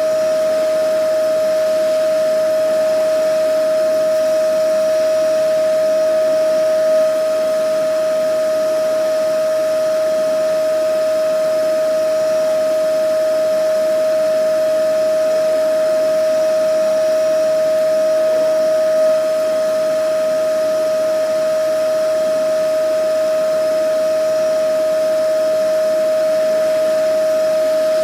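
Vacuum cleaner running continuously: a steady whine over an even rush of air, unchanging throughout.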